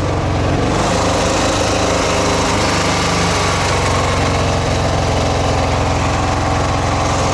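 Motorcycle engine running steadily and loudly, with an even low pulse.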